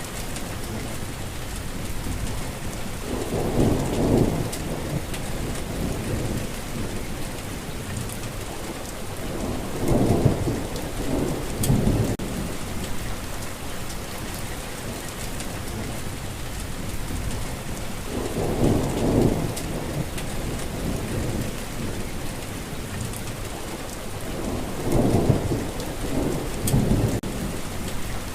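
Steady rain falling, with low rolls of thunder swelling and fading four times, every six to eight seconds.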